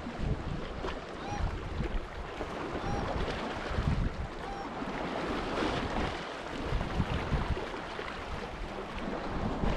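Wind gusting over the microphone beside open water, a steady rushing noise with low rumbling buffets. Faint short bird chirps come three times in the first half.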